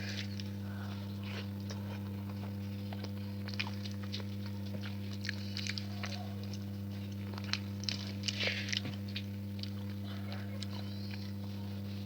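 A person eating a meal of curry and rice close to the microphone: scattered wet chewing and mouth clicks, with a cluster of them about eight seconds in, over a steady low hum.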